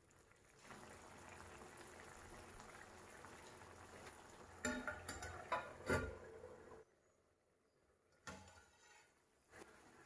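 Faint steady sound of food cooking in a pan, with a few sharp clinks of a utensil against the pan around five to six seconds in. It cuts off suddenly near seven seconds, followed by two brief knocks.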